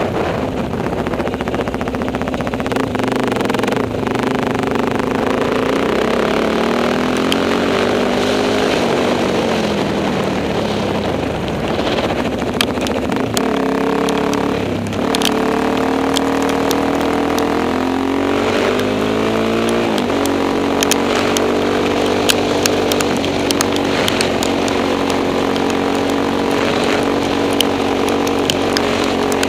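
Enduro motorcycle engine running while being ridden, the revs rising and falling several times before holding fairly steady in the second half. Short sharp ticks are scattered through the second half.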